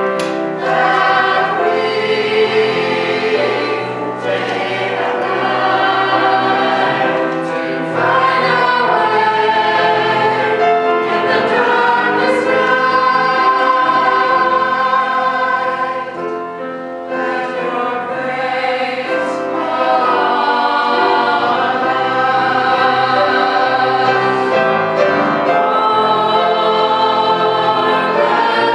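Choir singing in long held chords that change every few seconds, with a short lull in the phrasing about four seconds in and another just past halfway.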